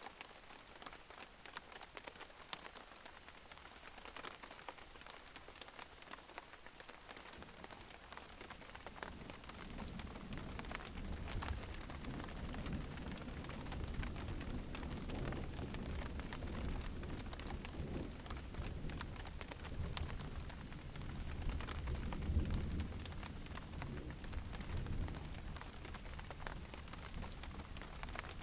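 Steady rain with individual drops pattering close by. About a third of the way in, a low rolling rumble of distant thunder builds, swells past the middle and eases off near the end.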